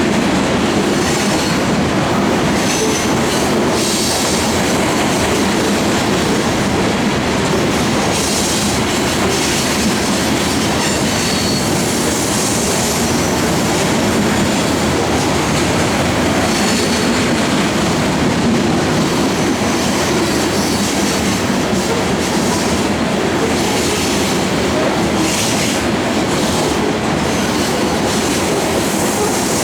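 Grain train's freight cars rolling past steadily, with wheels running on the rail and faint high wheel squeals now and then.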